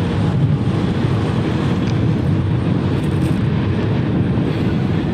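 Jet airliner engines running: a steady low rumble.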